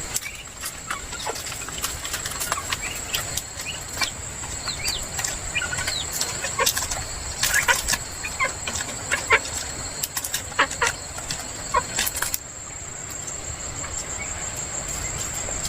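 Chickens clucking and giving many short high peeping calls, with a flurry of wing flapping about halfway through, over a steady high shrill of insects. A little after twelve seconds the chicken sounds stop abruptly and the insect shrill carries on alone.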